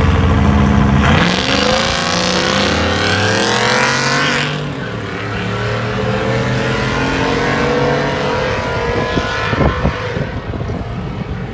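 Drag-racing truck engine at full throttle launching and accelerating: its pitch climbs steeply, drops at a gear change about four and a half seconds in, then climbs again more slowly as the truck pulls away and the sound slowly fades.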